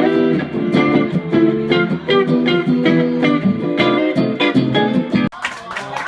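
Live blues jam with guitar to the fore, an instrumental passage without singing. The sound breaks off abruptly about five seconds in and carries on as a different stretch of playing.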